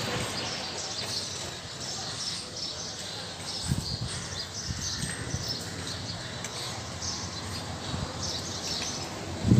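Small birds chirping over and over, short high calls over a steady outdoor background hiss.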